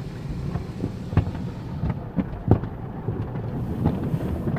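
Cloth strips of a car-wash mitter curtain slapping against the car's body, heard from inside the car as irregular thuds over a low rumble. The loudest thud comes about two and a half seconds in.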